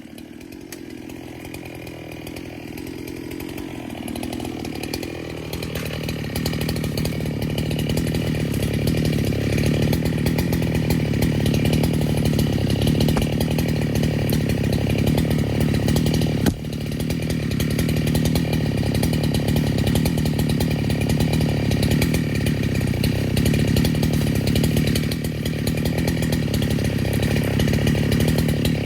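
Neotec NH895 two-stroke chainsaw, a Husqvarna 395 clone, running steadily at high revs while cutting white oak. It grows louder over the first several seconds, with a single sharp knock about halfway through.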